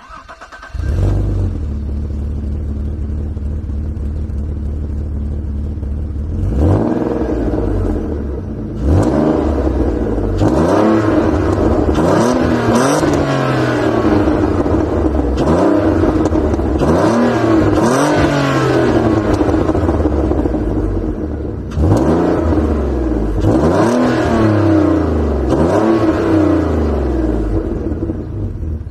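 Alfa Romeo 166's 3.0 V6 24-valve engine, breathing through a Magnaflow muffler with no centre silencer, starts about a second in and idles. It is then revved in a string of short throttle blips, each rising and falling back to idle: a first group of about eight, a pause at idle, then about four more before it settles to idle.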